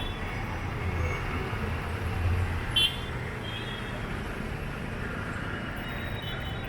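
Steady street traffic noise with a low rumble of passing vehicles, and one short high-pitched horn toot about three seconds in.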